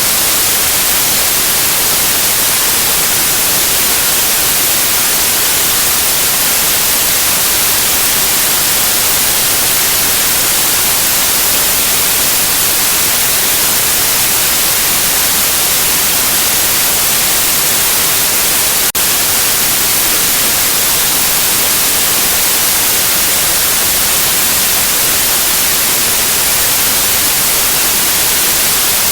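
Steady, loud white noise: an even, unchanging hiss strongest in the treble, played to soothe a baby to sleep. One faint click about two-thirds of the way through.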